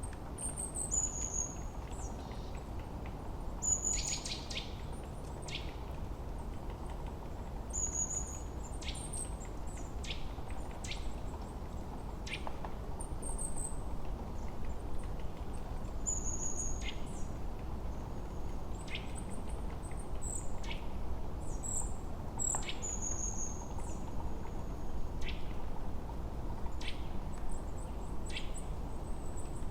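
Forest birdsong: several birds giving short high chirps and quick falling notes every second or two, over a steady low rush of wind.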